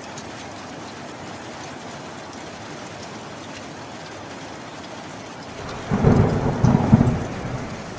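Steady heavy rain, then about six seconds in a loud crack of thunder that rumbles low for about a second and a half before fading back under the rain.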